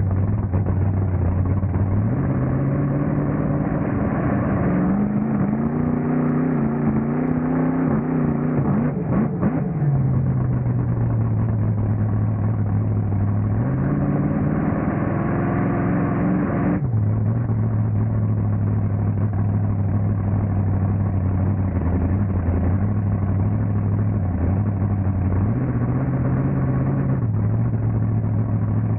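Monster truck engine running, revs climbing and holding twice, the second time cutting off abruptly back to a steady idle, with one short rev near the end.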